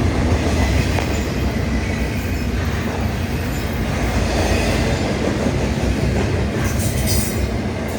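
BNSF double-stack freight train rolling past on the rails: a steady, loud rumble of wheels and cars, with a faint high ringing now and then.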